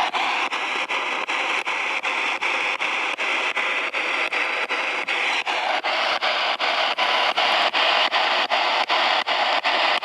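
Spirit box (ghost box) sweeping through radio stations: steady radio static chopped by short breaks about four times a second, with no clear words.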